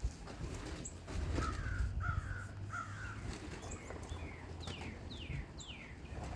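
Crows cawing: three caws in a row about a second in, then several shorter, higher calls that fall in pitch.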